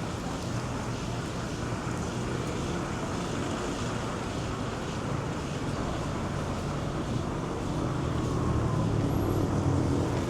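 City street ambience with road traffic: a steady wash of passing vehicles, with a low engine rumble that grows louder about eight seconds in.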